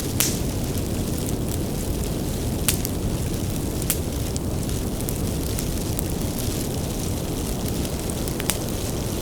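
Bonfire of burning firewood with a steady low rumble, and scattered sharp crackles and pops from the wood, a few of them louder.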